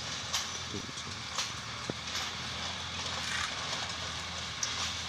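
Truck engine running steadily with road noise, broken by a few sharp knocks and rattles.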